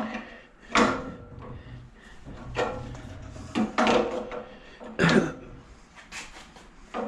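Small metal scrap being handled and sorted: a series of irregular clunks and scrapes, about five over the stretch.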